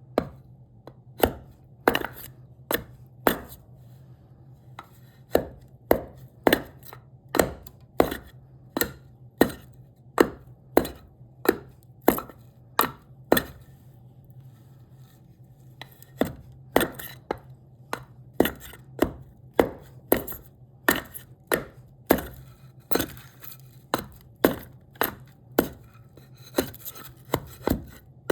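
Repeated sharp strikes of a hand tool cutting into cherry wood, about one or two a second, with a short pause midway. A steady low hum runs underneath.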